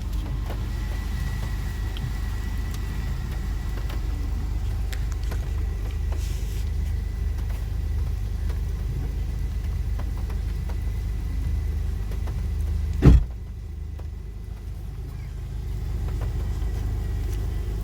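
A 2002 Chevrolet Blazer engine running steadily at idle. About thirteen seconds in there is one sharp knock, after which the rumble is quieter for a few seconds before it comes back.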